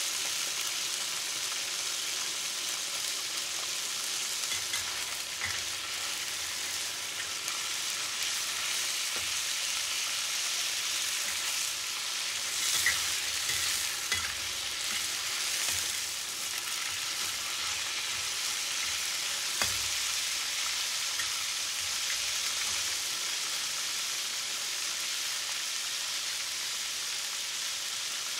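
Whole crawfish deep-frying in hot oil in a wok: a steady high sizzle, with a metal spatula stirring and knocking against the wok a few times, most around the middle.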